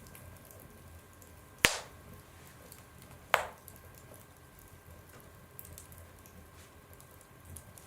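Wood fire burning in a stove, with faint crackling and two loud, sharp pops about a second and a half apart as the logs split in the heat.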